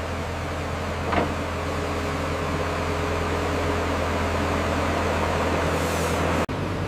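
Heavy construction machinery's diesel engine running steadily, with one short sharp knock about a second in.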